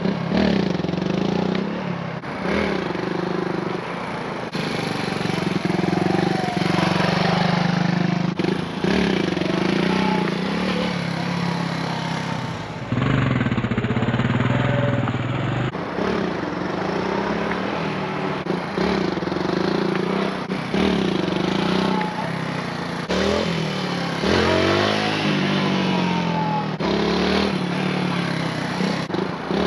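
Dual sport motorcycle engine revving up hard and easing off, over and over, as the rider tries to lift the front wheel into wheelies.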